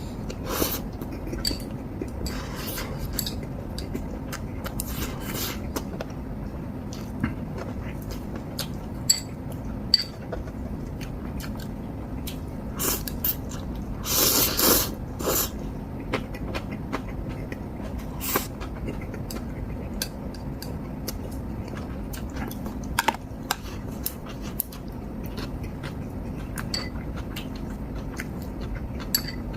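Ramen being eaten: chewing, a few noisy slurps of noodles lasting about a second each, the longest near the middle, and scattered light clicks of utensils against bowls. A steady low hum runs underneath.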